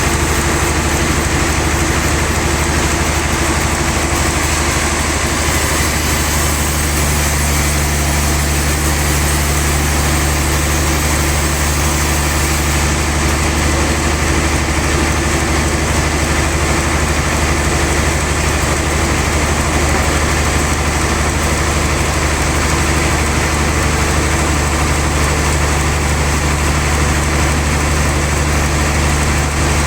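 Sawmill log-sawing machine running steadily with a deep, even hum and hiss.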